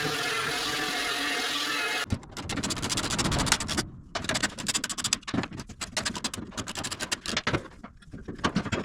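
Angle grinder with a flap disc running steadily on the body metal, taking off old spot welds and rust. About two seconds in the sound changes abruptly to dense, irregular crackling and scraping that comes and goes.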